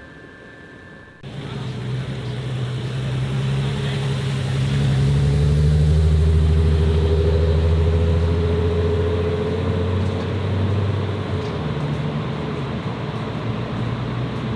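A car's engine running steadily as the car drives slowly past. It cuts in abruptly about a second in, is loudest around the middle and eases off a little after that.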